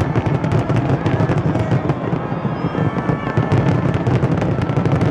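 Fireworks crackling and bursting in rapid, unbroken succession: a dense, loud barrage of cracks and bangs.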